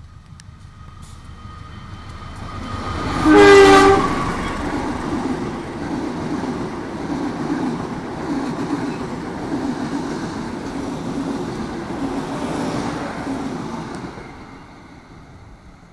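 A passenger train passes close by. A locomotive horn blasts once, briefly, about three seconds in, the loudest moment. Then come the steady rumble and clatter of the carriages' wheels on the rails, which fade away near the end.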